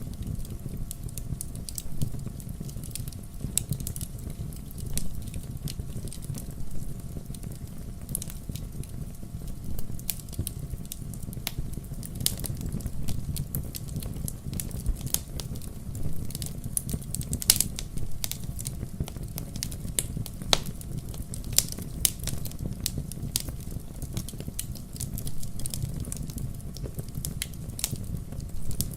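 Wood fire crackling, with irregular sharp pops and snaps over a steady low rumble of the burning logs.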